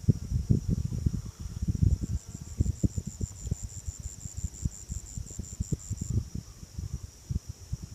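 Forest insects chirring steadily, joined from about two seconds in until six seconds by a rapid pulsing insect call at roughly five pulses a second, over irregular low taps and knocks.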